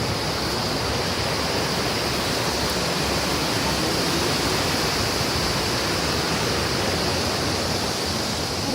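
Waterfall with its water rushing in a steady, unbroken noise.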